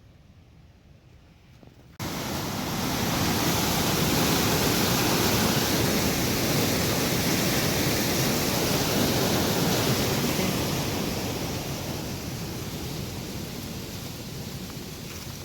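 Steady rushing of river water, starting abruptly about two seconds in and slowly fading toward the end.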